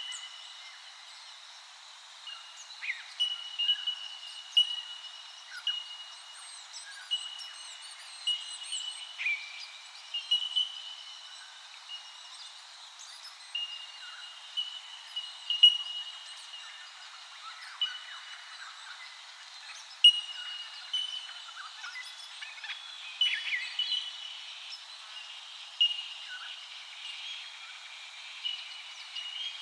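A chorus of wild birds calling, with short clear ringing notes repeated again and again at nearly the same pitch, mixed with scattered chirps and whistles.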